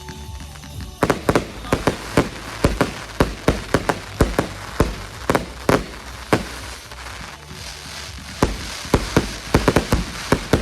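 Fireworks going off in a rapid, irregular string of sharp bangs starting about a second in, with a short lull about two-thirds of the way through; music plays faintly underneath.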